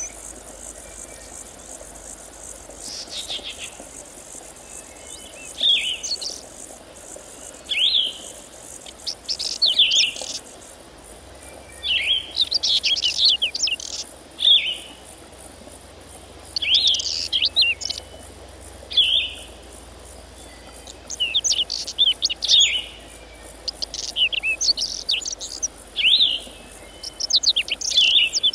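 A small bird singing, with short bursts of quick chirping notes every second or two. Behind it runs a steady high hiss of insects.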